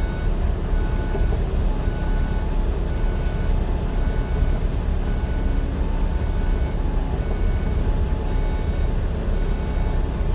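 Steady low rumble of a moving vehicle driving, with faint music tones over it.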